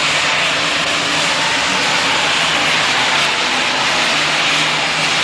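Super Stock pulling tractor's turbocharged engine running steadily at full power under load as it pulls the sled, with a loud, even rush of turbo and exhaust noise over a steady engine drone.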